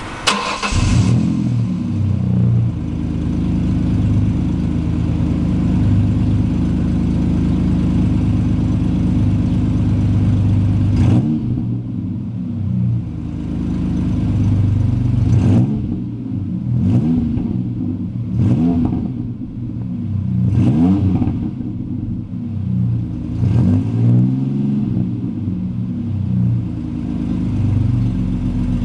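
2002 Ford Ranger's 3.0-litre V6 through Flowmaster Super 44 mufflers with a single-in, dual-out exhaust. It surges briefly at the start and settles to a steady idle, then the throttle is blipped about six times, the revs climbing and falling back each time.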